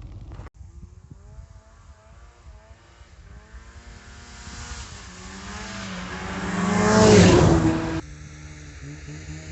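Snowmobile engine approaching and passing close by, growing loudest about seven seconds in as its pitch drops going past. The sound cuts off abruptly a second later to a steadier, more distant engine hum.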